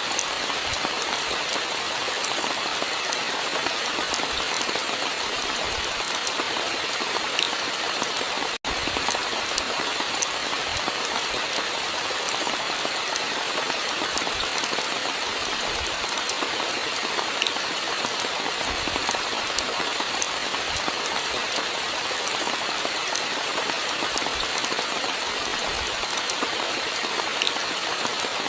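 Steady rainfall: a dense, even hiss with scattered sharp ticks of individual drops. The sound cuts out for a split second about eight and a half seconds in.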